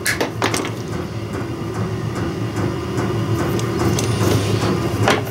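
Diesel space heater running with a steady hum and a faint tapping. Sharp clicks at the start, about half a second in and just before the end come from cutters working on thick-jacketed well-pump wire.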